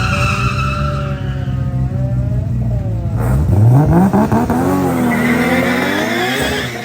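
A car engine running steadily, then revving hard and accelerating about three seconds in, its pitch climbing steeply, with a high tyre screech from about five seconds in.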